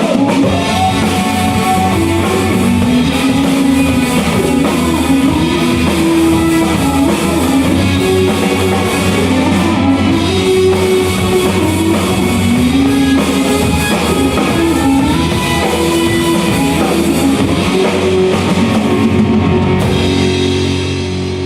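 Rock band playing an instrumental passage: guitar carrying a melodic line over a drum kit, dropping in level near the end.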